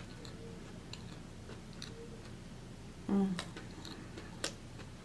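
Close-up mouth sounds of someone chewing a soft cinnamon cake donut: small wet clicks and smacks throughout, with a short hummed "mm" about three seconds in.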